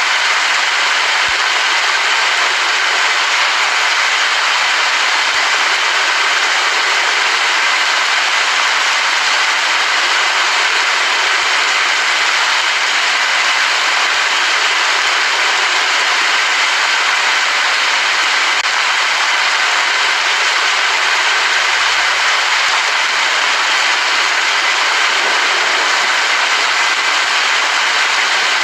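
Steady, loud rain, an even hiss without breaks.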